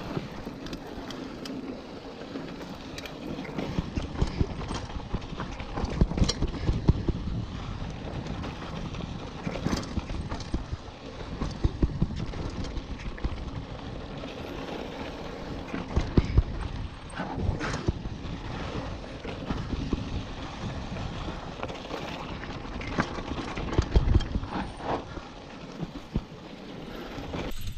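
Mountain bike riding over a rough, rocky trail: tyres crunching and the bike rattling, with irregular knocks and jolts over a steady rush of noise.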